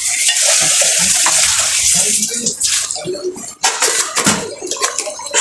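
Chicken and spice masala sizzling as it fries in a pan, a dense steady hiss that thins out about halfway through, followed by a spoon scraping and clinking in the pan as it is stirred.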